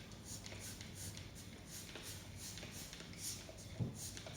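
Trigger spray bottle of kitchen degreaser squirting repeatedly onto a range-hood filter screen, a quick hissy spritz about two or three times a second.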